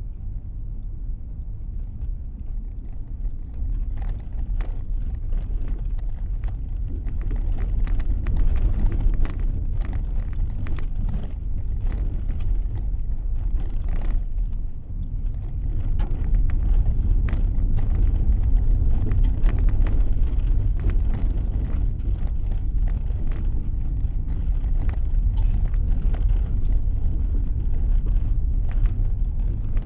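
Car driving along a road, heard from inside: a steady low tyre and engine rumble, with scattered sharp ticks and clicks that start a few seconds in.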